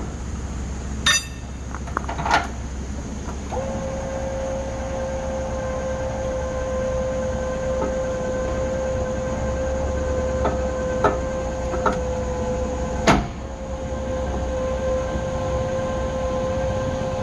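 Pickup truck running slowly, heard from inside the cab as a steady low rumble, with a few sharp clicks and knocks. A steady high tone, like an electronic chime, comes in about three and a half seconds in and holds on.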